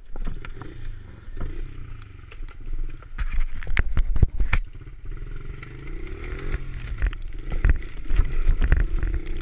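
A small pit bike engine catches and runs, revving up and down, with loud clattering knocks over it, the loudest a few seconds in.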